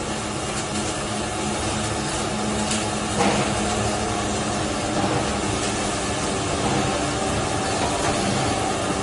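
Circumferential seam welding machine running: a steady machine hum under an even hiss, with a few brief clicks.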